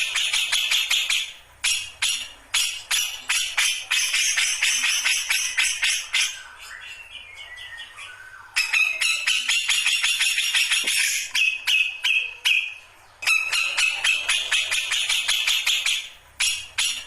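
Cucak jenggot (grey-cheeked bulbul) in full, continuous song, the state its keepers call ngombyok. The song is long runs of rapid, ringing, jangling notes, with a softer stretch of sliding notes around the middle.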